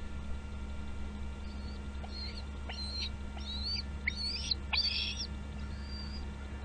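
Bald eagle giving a series of about eight high, thin chirping calls, loudest in the middle, over a steady low hum.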